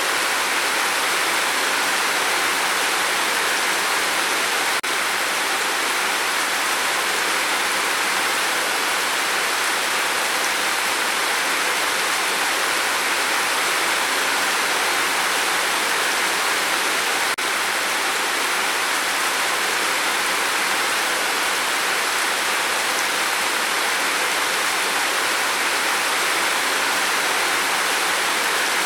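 Steady rainfall: an even, dense hiss of rain that does not change.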